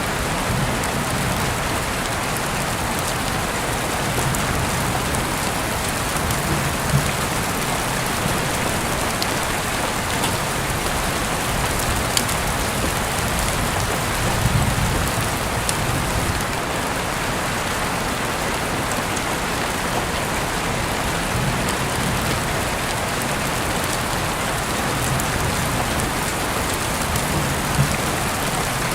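Heavy rain falling steadily, an even hiss with a few sharper drip hits now and then and occasional soft low swells.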